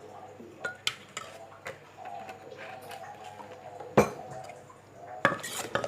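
Kitchen utensils clinking and knocking against a mortar while salad ingredients are mixed: a few scattered clinks, one sharper knock about four seconds in, then quick repeated clatter near the end.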